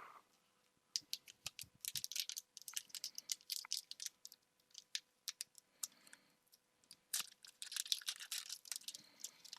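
Pokémon trading cards being handled and flicked through: quick, irregular soft clicks and rustles of card stock, in two busy stretches with a lull in the middle.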